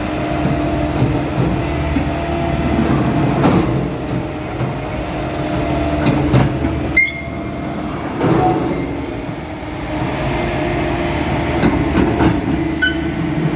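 Diesel engine of a Bomag vibratory roller running steadily under load with a droning tone, with several short metallic knocks and clanks, while the roller struggles to climb onto a truck.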